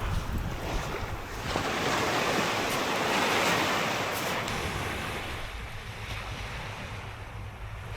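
Sea waves washing onto the shore, one surge swelling about three seconds in and then ebbing away, with wind rumbling on the microphone.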